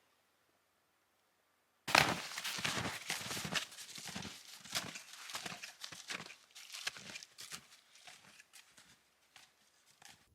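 Footsteps through deep snow, most likely on snowshoes, at about two to three steps a second. They start suddenly about two seconds in after a silence and grow fainter toward the end.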